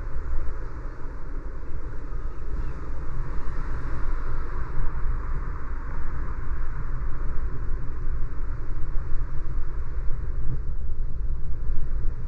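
Steady driving noise of a car on a city street: a constant low rumble with tyre and road hiss. The hiss swells slightly a few seconds in.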